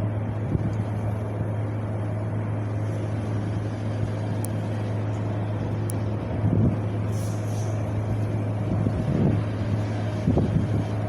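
Wind blowing over a steady low rumble, with stronger gusts about six and a half, nine and ten and a half seconds in.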